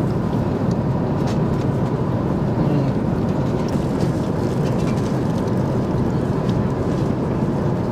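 Steady airliner cabin noise in flight: an even, unbroken low rush with a faint steady hum, and a few light clicks over it.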